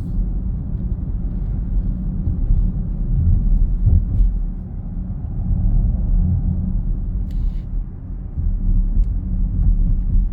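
Steady low droning rumble of a BMW X7 driving on Hankook Dynapro HPX tyres, heard inside the cabin. The owner cannot tell whether it is tyre road noise or a resonance; the dealer found the suspension bearings, tyres and alignment without fault.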